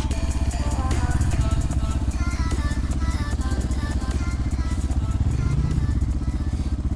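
250 cc single-cylinder enduro motorcycle engine running at a steady pace, with background music over it.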